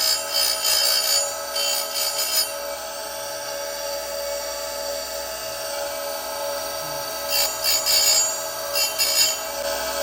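Oregon 410-120 chain grinder with a CBN wheel running with a steady whine, the wheel grinding a chainsaw cutter in short hissing swipes: several in the first couple of seconds, a spell of the motor alone, then more swipes near the end.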